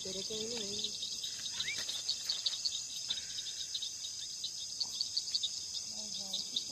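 Crickets chirping in a continuous chorus: a high, fast, evenly pulsing trill that goes on without a break.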